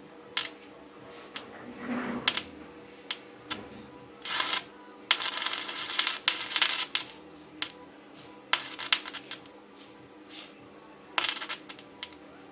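Metal clinks and clatter, as of steel pieces and tools being handled on a workbench: scattered sharp knocks, with a dense run of them about five to seven seconds in.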